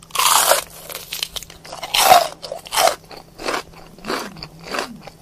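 A person chewing and crunching a mouthful of food, bite after bite in a string of short crunches, the loudest near the start and about two seconds in.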